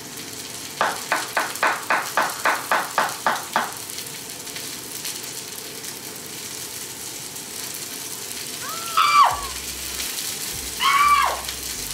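Chicken browning in a frying pan, a steady sizzle. About a second in comes a quick run of about eleven short, sharp pitched sounds, and near the end two brief falling voice-like sounds.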